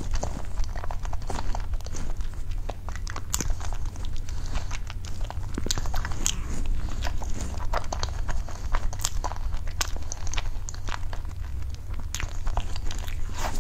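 Close-miked biting and chewing of a soft pink cream cake, with many short wet mouth clicks and smacks, over a steady low hum.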